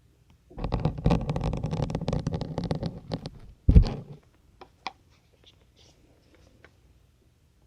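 A plastic syringe is pushed into a firm sponge, giving a crackling, squeaky crunch for about two and a half seconds. A heavier knock follows a little before four seconds in, then a few light ticks.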